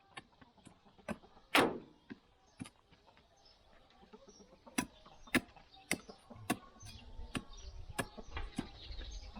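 A series of sharp knocks and clicks: one louder knock about a second and a half in, then a run of clicks about two a second through the second half.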